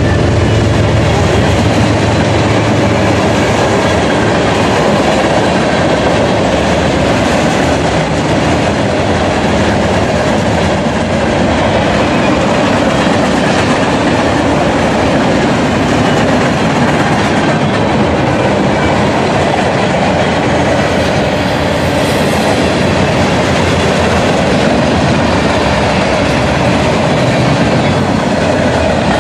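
Freight cars of a BNSF manifest train, covered hoppers then tank cars, rolling past close by: a steady, loud rumble of steel wheels on the rails.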